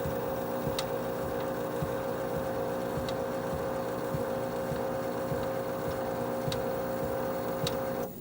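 A steady machine hum with one strong pitch and several overtones, broken by a few sharp clicks, that cuts off suddenly near the end.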